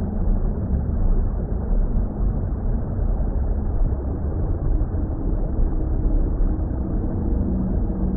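Steady, muffled underwater-style water rumble with a faint low drone under it: a deep, even ambient noise with nothing bright or sharp in it.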